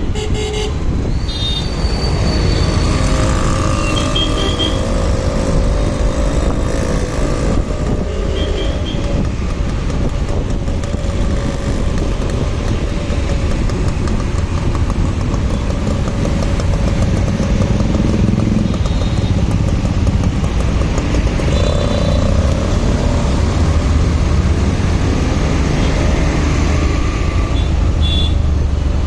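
Riding in road traffic on a motorcycle: a steady rumble of engine and road noise, with several short vehicle horn toots.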